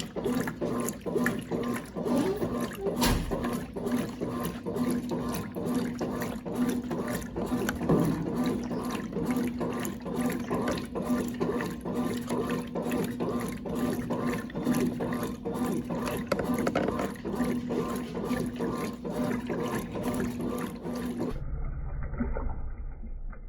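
Water splashing and running inside a Brastemp Clean washing machine while it works, over a steady electrical hum. About two seconds before the end the sound cuts abruptly to a duller, lower rumble.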